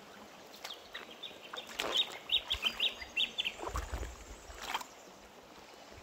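A bird calling a quick run of short, high notes for about two seconds, with a few louder calls among them, over the steady rush of a stream flowing over rocks.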